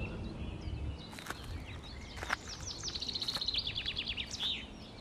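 Songbird singing, with scattered chirps and a fast trill in the second half, over a low outdoor rumble and a few sharp clicks.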